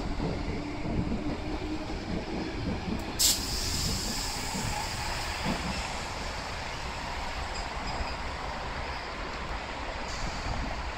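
Tangara electric suburban train pulling away from the platform and running off into the distance, with a steady rolling rumble. A low hum fades out after about four seconds, and there is one brief, sharp, high-pitched burst about three seconds in.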